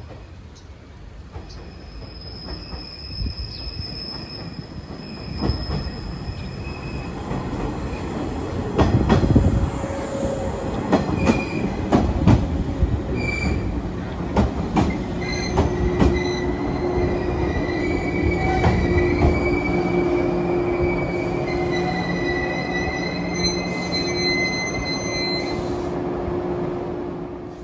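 Red-and-cream electric multiple-unit train pulling into the platform. It grows louder as it nears, its wheels clack over the rail joints as it runs past, then high squealing tones from the brakes and wheels carry on as it slows to a stop.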